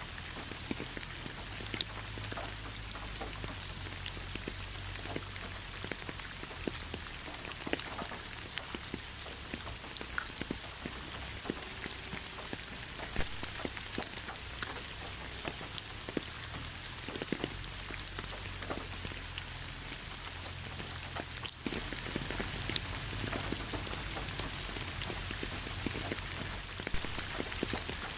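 Steady rain with many individual drops ticking close by. It breaks off for an instant about three-quarters of the way through and picks up again a little louder.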